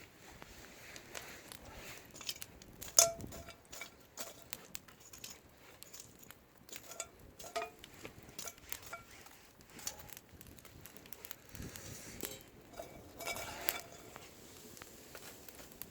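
Cookware and utensils being handled: scattered metal clinks and knocks, with a sharp knock about three seconds in and another cluster of clatter near the end.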